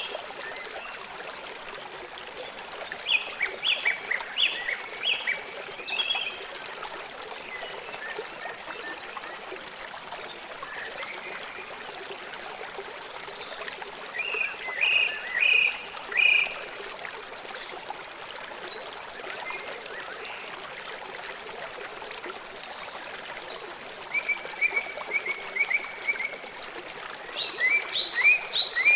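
A stream running steadily, with a songbird singing short phrases of quick high chirps four times, one of them an even trill.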